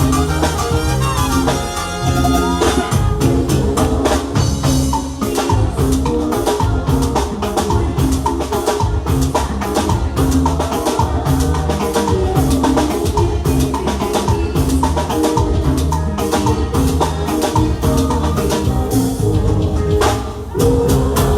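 Live band playing an instrumental passage of Latin dance music with a steady percussive beat, briefly dropping out shortly before the end.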